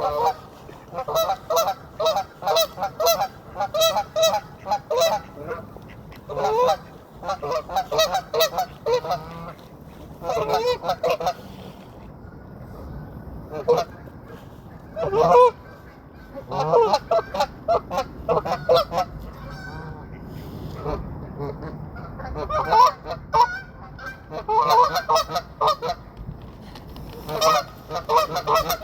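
Geese honking: runs of quick repeated calls in bouts of a second or few, with short pauses between them.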